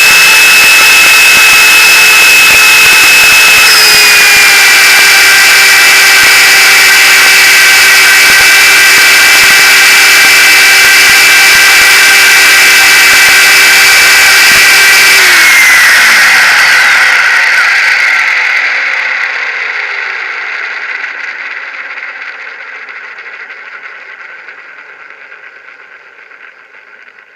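Gaui Hurricane 425 electric RC helicopter running at a steady head speed, its motor and rotors giving a loud, even whine that drops slightly in pitch about four seconds in. About halfway through the whine falls in pitch and the sound dies away as the rotor head spins down.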